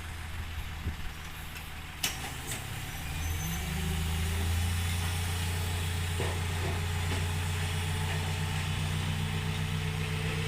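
Heavy diesel engine running with a steady low note, growing louder about three and a half seconds in and then holding steady. There is a sharp click about two seconds in.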